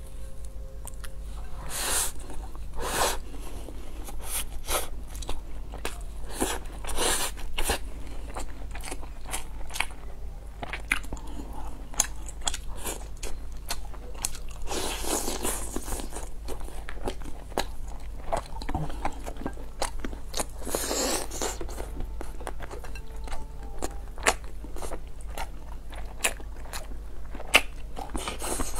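Close-miked eating sounds: a person chewing and biting mouthfuls of rice and stew, with many short, sharp clicks and taps scattered throughout.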